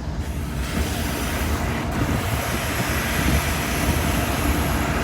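Idling diesel locomotives with a steady low rumble, under a hiss of escaping air that comes up about half a second in and holds steady.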